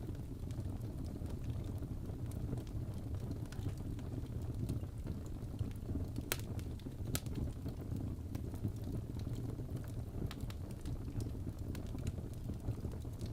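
Crackling fireplace recording: a steady low rumble of burning wood with scattered sharp pops, two louder pops close together a little after halfway through.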